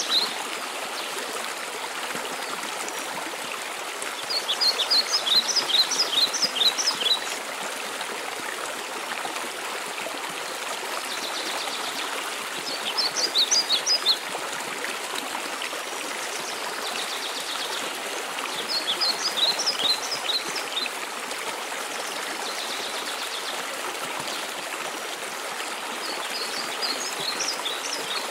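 Steady rushing water of a mountain waterfall. A songbird sings four short phrases of rapid high chirps over it, one about every seven seconds.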